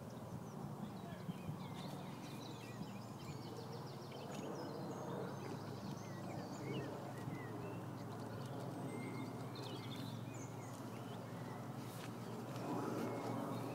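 Birds chirping on and off over a steady low background rumble, with a few faint clicks near the end.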